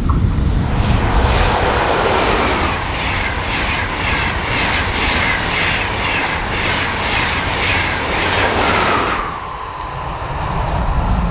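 Train passing at speed on a mainline: a rushing sound with a regular clatter of wheels about twice a second, dying away about nine and a half seconds in. Wind buffets the microphone throughout.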